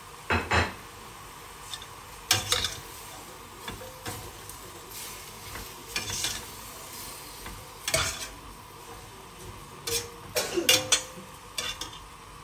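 A kitchen utensil stirring and scraping in a pan or bowl, in separate short clattering strokes with pauses between them, over a faint steady hiss.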